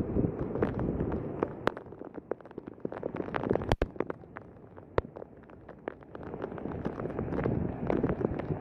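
Rushing floodwater, a rough rumbling wash with many sharp knocks and clicks through it, as of stones and debris being carried along. The sound breaks off briefly a little before the middle.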